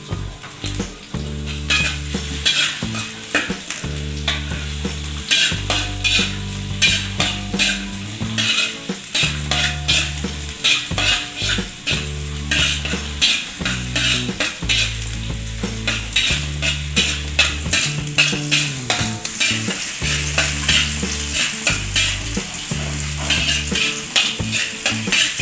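Sliced shallots and garlic sizzling in hot oil in a wok, with a metal spatula scraping and clicking against the pan in many quick strokes as they are stirred.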